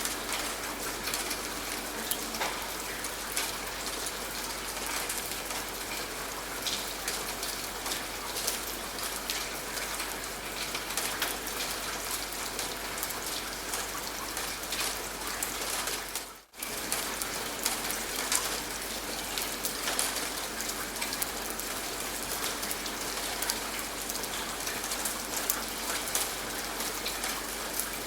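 Steady rain with many sharp individual drop hits over an even hiss. About sixteen seconds in the sound drops out for a moment, then resumes.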